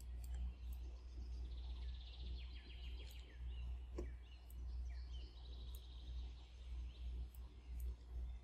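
Birds chirping in quick trills in the background over a steady low hum, with a few sharp clicks from a computer mouse.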